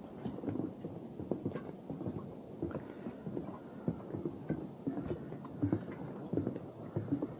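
Footsteps on a wooden boardwalk: an irregular run of soft knocks, a few each second.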